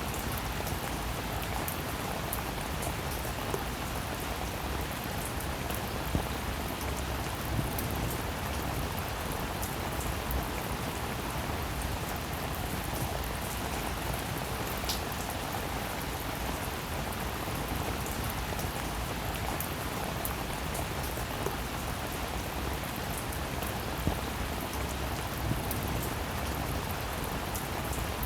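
Steady rainfall, an even hiss of rain with scattered louder single drops ticking through it.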